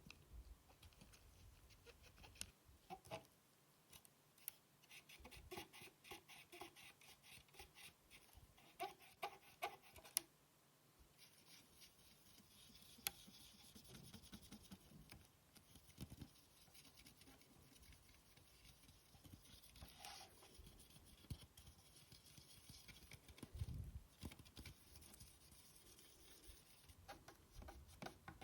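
Hands working on small plastic console parts: faint scattered clicks and taps, then light scratchy rubbing or brushing from about eleven seconds in, with a few more taps.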